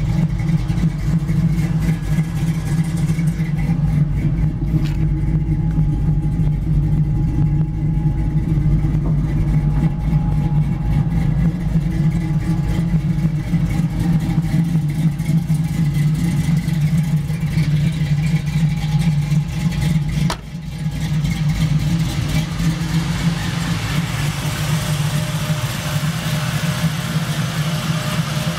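Built LS1 V8 with a performance cam idling steadily through a Flowmaster-muffled exhaust. The tone turns brighter and hissier in the last few seconds.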